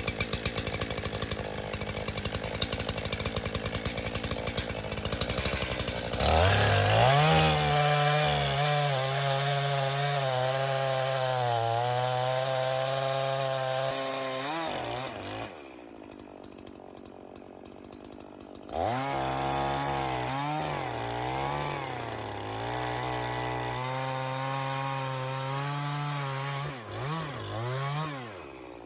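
Echo CS501P gas chainsaw idling with a fast, ragged putter, then opened to full throttle about six seconds in and cutting into a log, its pitch wavering under load. Just past the middle it drops back to a quieter idle for about three seconds, then revs and cuts again, with two short throttle blips near the end.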